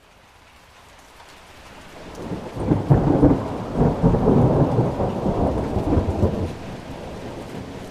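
Rain hiss growing louder, then a long roll of thunder that swells about two and a half seconds in, is loudest around three to four seconds, and dies away near the end under steady rain.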